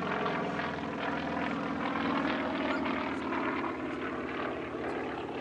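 Propeller aircraft's piston engine running steadily, swelling a little around the middle.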